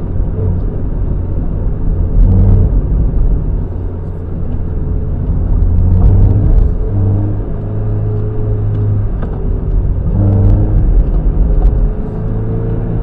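Mazda MX-5 NB 1.8's inline four-cylinder engine heard from an onboard camera while lapping a circuit, its note rising and falling with throttle and gear changes.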